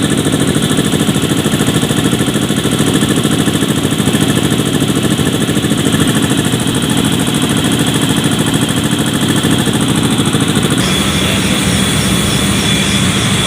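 Ingersoll Rand industrial air compressor running, a loud steady mechanical drone with a fast even pulsing. About eleven seconds in the sound changes and a steady high whine comes in.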